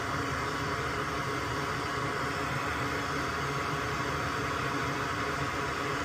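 A small electric fan or blower running steadily: a constant hiss with a rough low hum underneath, unchanging throughout.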